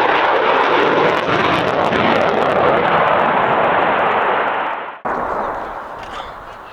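Eurofighter Typhoon's twin EJ200 turbofans, a loud jet rumble with a crackling edge. About five seconds in it drops off suddenly to a quieter jet sound that fades away.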